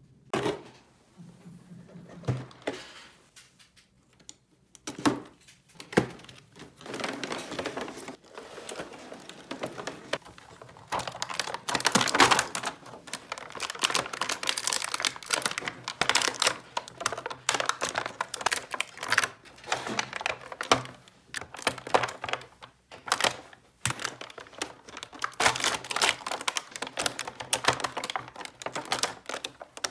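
Small hard plastic toy pieces being handled, a dense clatter of light clicks and taps. The clicks are scattered at first and run together from about six seconds in.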